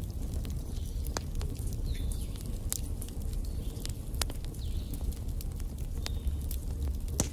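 Log fire burning in a fireplace: a steady low rumble with irregular sharp crackles and pops, about one every second or two.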